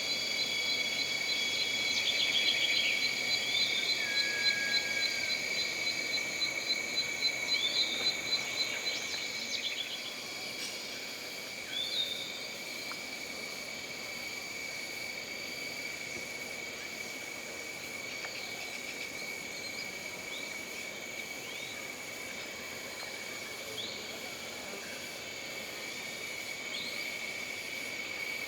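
Jungle night ambience of insects: a steady high-pitched drone, with a fast, evenly pulsing trill that stops about nine seconds in. Scattered short chirps run throughout.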